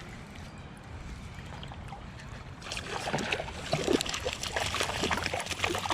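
Steady low water and wind noise, then from about halfway a busy run of small splashes, clicks and crackles.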